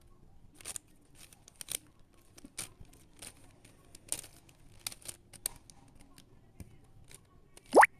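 Plastic Rubik's cube layers being turned by hand, giving irregular clicks and clacks. Near the end there is one short, sharp rising squeak, the loudest sound here.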